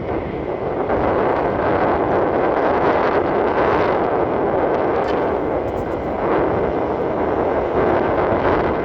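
Wind blowing across the microphone: a loud, steady rushing noise.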